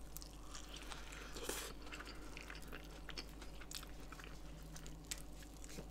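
Faint close-up chewing of a quesadilla: soft mouth sounds with scattered small crunches and clicks, over a low steady hum.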